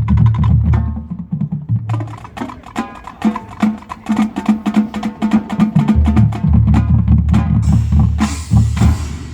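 Marching band playing, led by the percussion: quick snare and bass drum strokes over low sustained brass notes, with a cymbal wash near the end.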